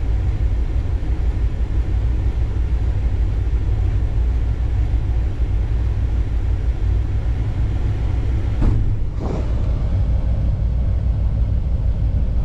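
Steady low rumble of a vehicle, with two short knocks a little over half a second apart about nine seconds in.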